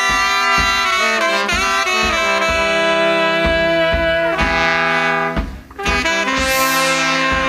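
Live band playing a jazzy instrumental, with horns holding chords over a steady drum beat. The band breaks off briefly about five and a half seconds in, then comes back with a long falling pitch glide.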